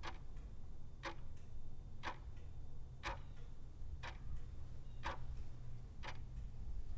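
Clock ticking steadily, about one tick a second, each tick followed by a much fainter one, over a low steady rumble.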